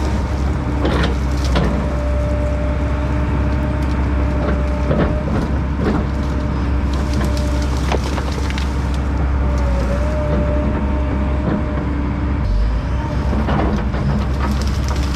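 Fecon Bullhog forestry mulcher on an ASV RT-120F track loader grinding brush and wood, its diesel engine running steadily under load with a steady whine. Sharp cracks and splintering of wood come every second or two.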